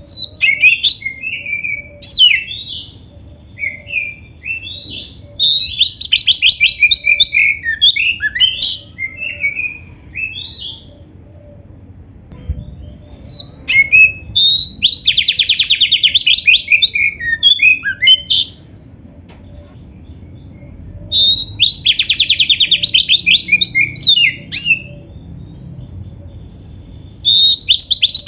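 Oriental magpie-robin singing in full voice: loud phrases of varied whistles and fast rattling trills, packed with notes copied from other birds. The phrases come in four spells, each a few seconds long, with short pauses between.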